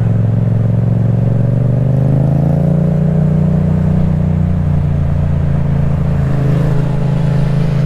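Yamaha MT-07 parallel-twin engine through an Akrapovic titanium exhaust, under way: the engine note climbs gently over about the first three seconds as the bike accelerates, then holds steady at cruising speed.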